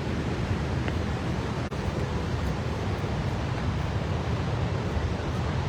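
Steady roar of a large waterfall, its low rumble mixed with wind buffeting the microphone.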